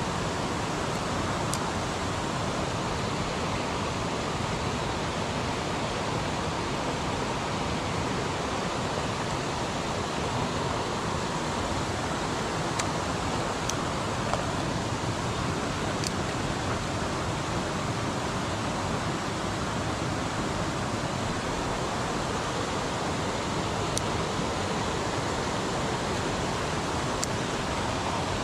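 Mountain stream water rushing steadily over rocks, with a few faint clicks now and then.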